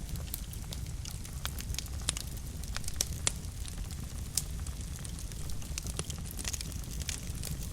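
Wood fire burning in a fireplace: a steady low rumble of flame with frequent sharp pops and crackles at irregular intervals.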